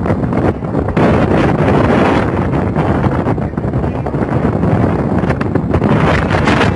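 Strong wind rushing over the microphone at sea, a loud steady roar that flutters slightly in level.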